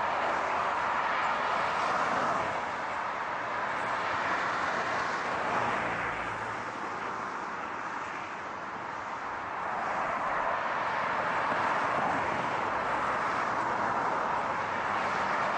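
Steady rushing road noise of a car, easing off a few seconds in and building back up about ten seconds in.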